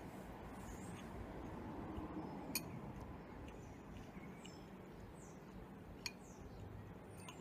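Spoon clinking against a soup bowl: three sharp clinks, about a second in, two and a half seconds in, and six seconds in, the middle one the loudest, over a low steady background hiss.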